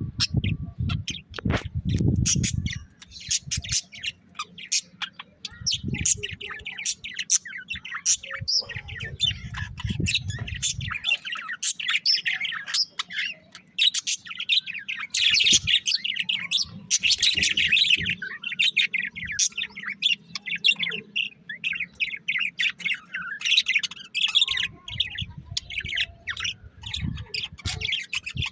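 Pet birds in a cage chirping continuously, many rapid short calls overlapping. A low rumbling noise comes and goes underneath, loudest in the first few seconds.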